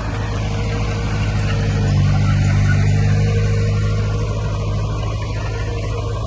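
Diesel engine of heavy earth-moving equipment running steadily at an even low pitch, with a fainter steady whine above it.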